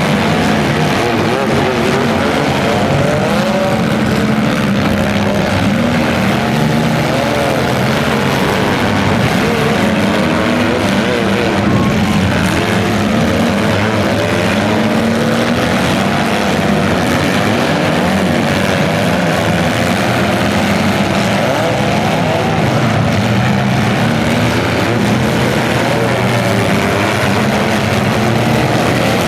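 Several compact-car engines running and revving at once, their pitches wavering up and down.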